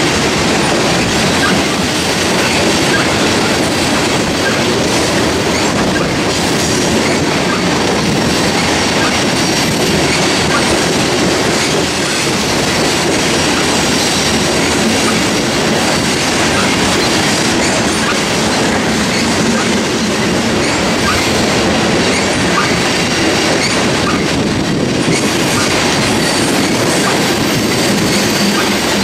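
Two freight trains rolling past side by side, a loaded coal train of open hopper cars on the near track and an intermodal train of trailers on flatcars beyond: a steady, loud rumble and clatter of steel wheels on rail.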